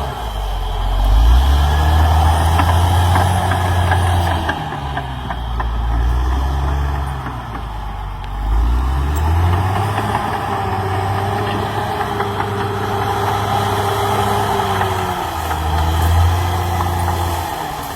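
CAT D6R XL bulldozer's diesel engine running, its pitch rising and falling several times as it comes under load and eases off.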